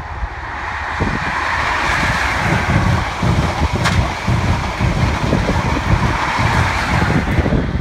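InterCity 125 High Speed Train passing at speed: a steady rush of wheels on rail that swells over the first two seconds and falls away near the end, with one sharp click about four seconds in. Wind buffets the microphone.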